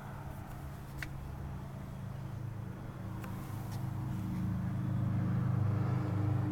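A motor vehicle's engine running, a steady low hum that swells louder toward the end, with a couple of light clicks.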